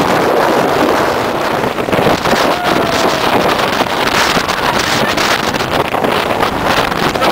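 Strong blizzard wind buffeting the microphone: a loud, gusting rush of noise.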